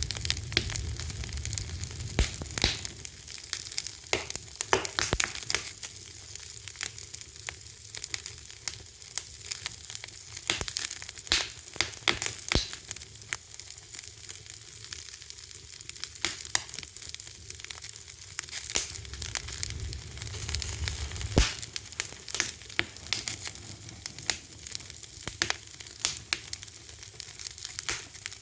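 Fire crackling: a dense, irregular stream of pops and snaps over a constant hiss.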